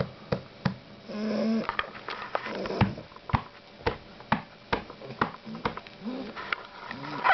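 Shar-Pei puppy snoring and snuffling in its sleep, with a few short squeaky sounds. A steady run of sharp clicks, about three a second, goes on throughout.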